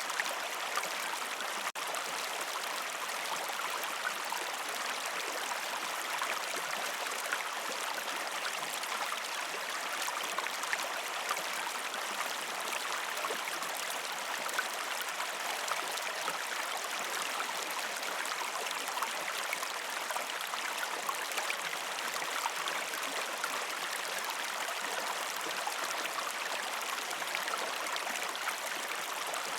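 River stream flowing over rocks: a steady rushing, babbling wash of water with fine splashy flicker, broken by a momentary dropout a little under two seconds in.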